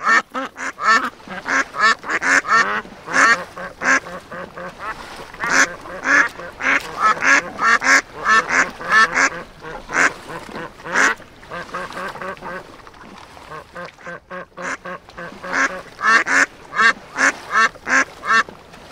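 Ducks quacking in quick runs of many short calls, with a brief lull about two-thirds of the way through.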